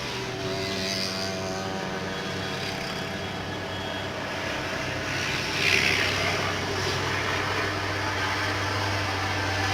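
Heavy truck engine labouring up a gentle grade, a steady low drone that grows louder near the end. A short hiss comes about six seconds in.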